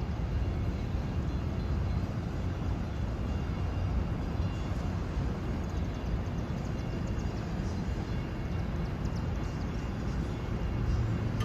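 Steady low rumble with a noisy outdoor haze, then near the end a deep boat horn starts sounding, one steady low tone.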